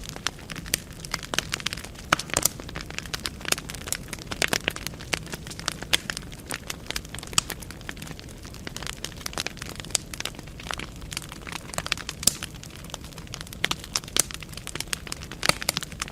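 Wood fire burning in a fireplace: logs crackling and popping in frequent irregular snaps over a steady low rumble of the flames.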